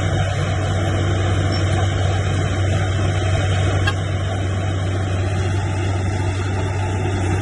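Heavy diesel engine of earthmoving machinery running steadily at a constant speed: a low, even hum under a broad rumble.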